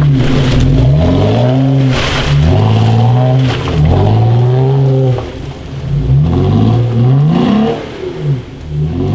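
Off-road 4x4's engine revving up and down over and over, about once a second, as it claws up a muddy uphill trail.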